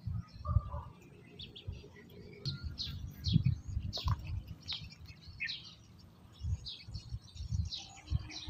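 Small birds chirping repeatedly in short calls, mixed with irregular low rumbling thuds that are the loudest sounds.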